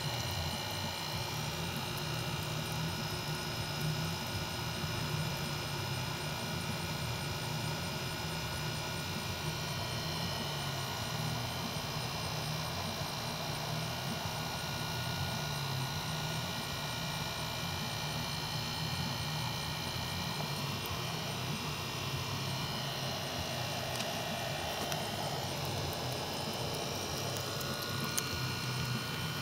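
A steady, unchanging hum, made of several steady tones over a low drone.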